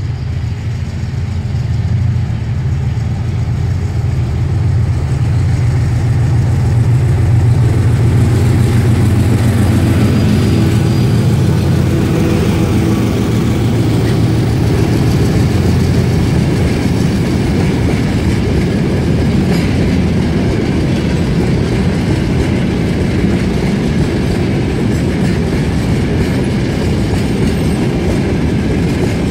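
GE C36-7i diesel locomotive's V16 engine working hard as it pulls a freight train past, its low drone loudest about a third of the way in. Then the steady rolling and rail noise of a long line of tank wagons going by takes over.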